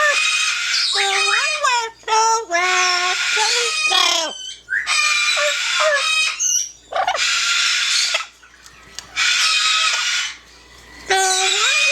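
Yellow-naped Amazon parrot vocalizing loudly: a string of pitched, speech-like calls that glide up and down, alternating with harsh screeching squawks about a second long, with short pauses between them.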